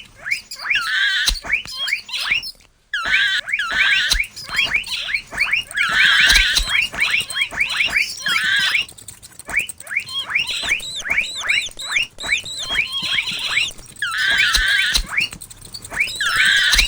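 Mouse squeaking sound effects: rapid runs of short, high-pitched squeaks in quick clusters, with a brief gap about three seconds in.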